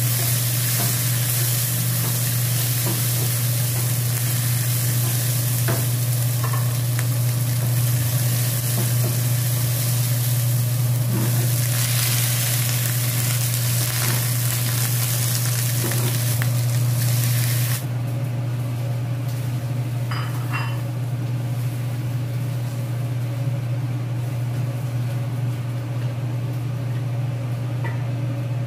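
Garlic, chilli and sliced bitter melon sizzling in hot oil in a frying pan, stirred and scraped with a metal spatula. The sizzling drops away sharply about two-thirds of the way through, leaving a steady low hum and a few light knocks.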